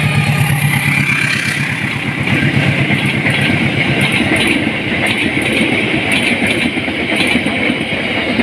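Passenger train passing close by: wheels on the rails give a steady rumble with quick clattering from about three seconds in. A low engine hum from the locomotive that has just gone by fades out within the first two seconds.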